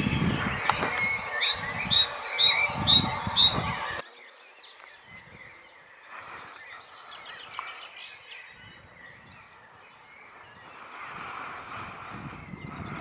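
Birds calling: a run of short, evenly repeated high chirps over lower pulsing sounds, then an abrupt cut about four seconds in to faint birdsong.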